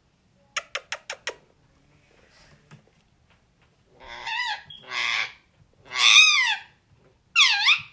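Indian ringneck parakeet giving four loud, harsh squawking calls in quick succession, each rising and falling in pitch, after a quick run of about five sharp clicks near the start.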